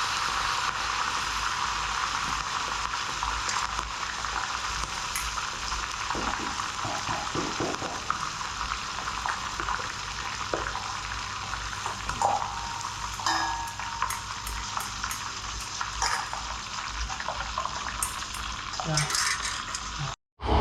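Food frying in hot oil, a steady sizzle, with scattered clicks and scrapes of a utensil being stirred through it in the second half.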